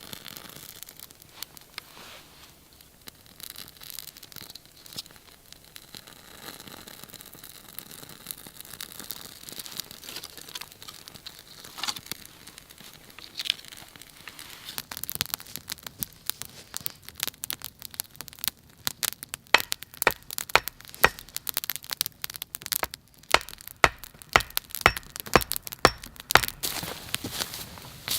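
Dry kindling crackling and snapping. It is sparse at first, then grows into dense, sharp cracks about halfway through.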